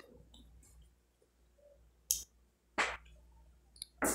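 A person chewing food, with a few short wet clicks and smacks of the mouth in the second half.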